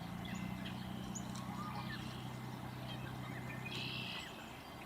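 Outdoor nest-camera sound: scattered short, high bird chirps and a couple of brief trills over a steady low hum that stops about four seconds in.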